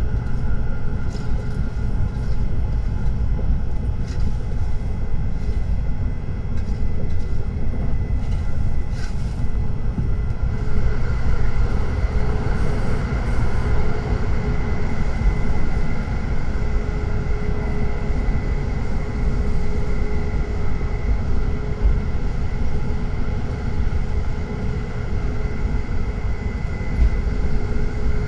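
Tokaido Shinkansen train running at speed, heard from inside the passenger car: a steady low rumble with a faint high whine over it. A few light ticks come in the first third.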